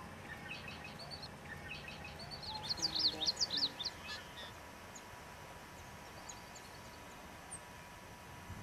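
A songbird singing: a phrase of quick high chirps that builds to a rapid run of sharply slurred notes about three seconds in, followed by a few faint scattered chirps.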